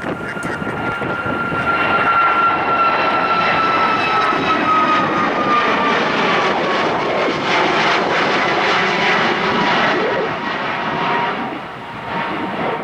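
Jet airliner passing close, its engines a loud rush with a high whine that slowly falls in pitch as it goes by, easing a little near the end.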